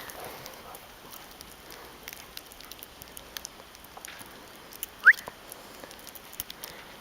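Light, scattered crunching and patter of a poodle's steps in fresh snow, with one short high rising squeak about five seconds in.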